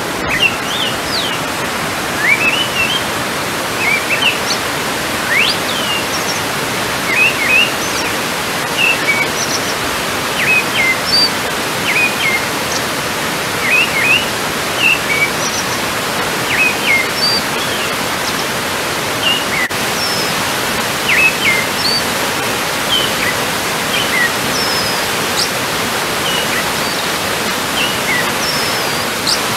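Small birds giving short chirps and brief whistled notes over and over, against a steady rushing noise.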